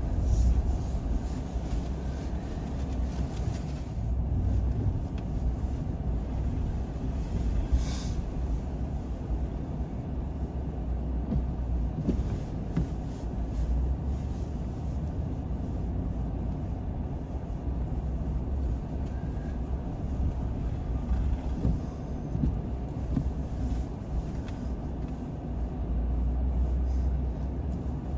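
Car driving along a road: a steady low rumble of tyres and engine, with one short click about eight seconds in.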